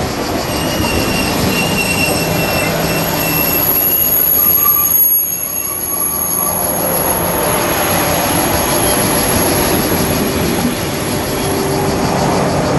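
TGV Duplex double-deck high-speed train rolling slowly into the station and braking almost to a stop. The wheels and brakes squeal in several steady high tones over a low rumbling rolling noise.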